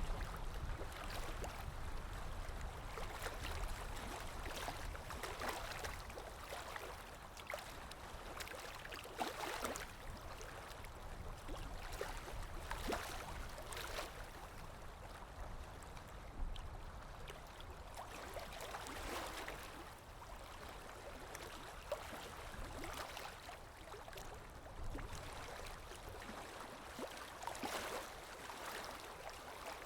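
Water lapping and splashing in small irregular swells, over a low wind rumble.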